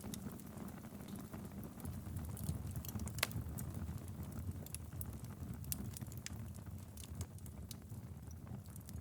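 Fireplace fire crackling: scattered sharp pops and snaps over a low, steady rumble of the flames, with one louder pop about three seconds in.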